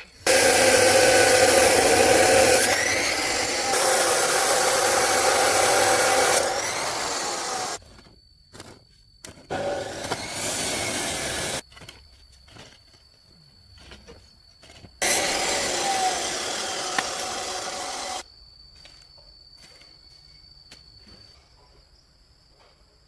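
Loud, steady rushing of air from a blowing machine, switched on and off three times: first for about seven seconds, then about two seconds, then about three seconds near the end.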